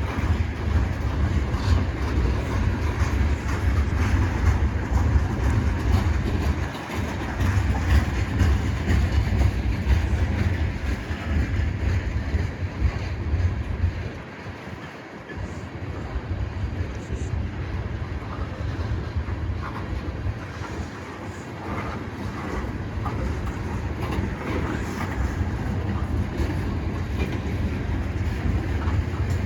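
Freight cars of a passing CN train rolling by, wheels rumbling and clattering on the rails. The sound dips briefly about halfway through, then carries on steadily.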